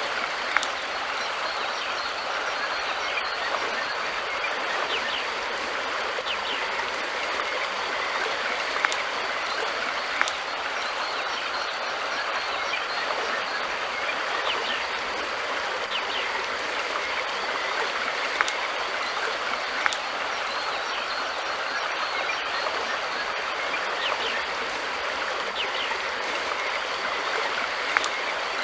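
River water flowing steadily, an even rushing sound with occasional brief sharp clicks and splashes.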